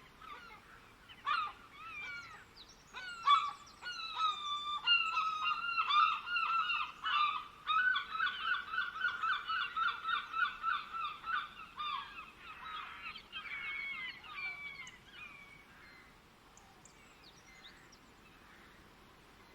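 Birds calling in a long series of pitched calls that speed up into a rapid run of about four or five calls a second, then thin out and fade away about three-quarters of the way through.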